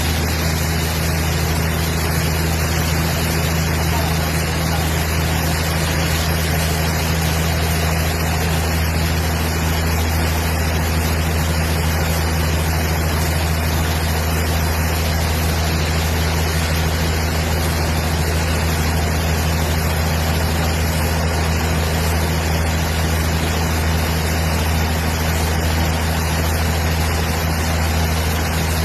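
Engine-driven wood-cutting machinery running steadily: a constant low hum with a broad noisy whine over it, unbroken throughout.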